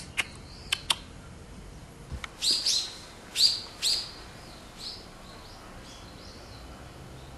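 A small bird chirping several times in a run, the loudest chirps around the middle and fainter ones after. It is preceded by a few short, sharp ticks in the first second.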